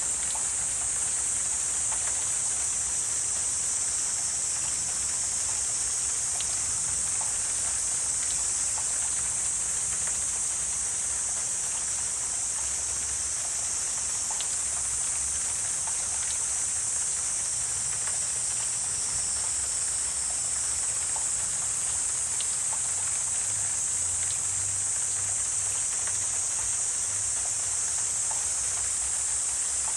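Wetland ambience: a steady, high-pitched insect chorus over a soft, even wash of noise like light rain or running water, with faint scattered ticks.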